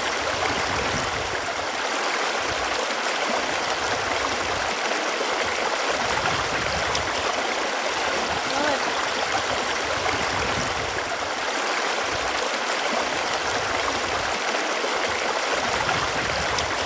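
Running water flowing steadily, a continuous stream-like rush with light gurgling.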